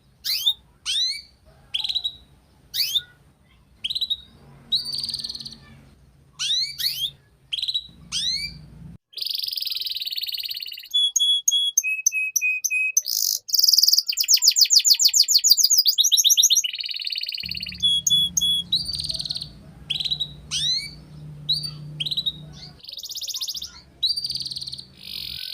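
Domestic canary singing: strings of quick upward-sweeping chirps, buzzy notes and short steady whistled tones, with a fast rolling trill about halfway through as the loudest part.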